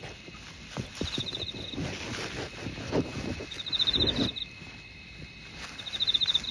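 An insect chirping in short trills of rapid pulses, three times about two and a half seconds apart, over the thud of footsteps of a person walking.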